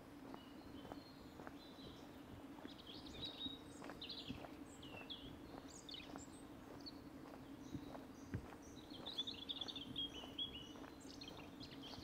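Small woodland birds chirping and calling, with brief high chirps scattered throughout and a denser burst of calls near the end. Under them, walking footsteps on a path at a steady pace, and a steady low background hum.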